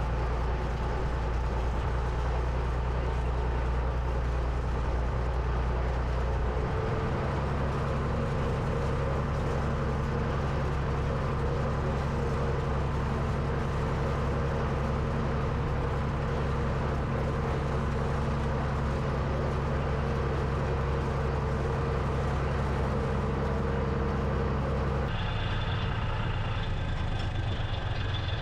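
Diesel farm tractor engine running steadily under load. Its note shifts about six seconds in, and again near the end, when a higher steady whine joins it.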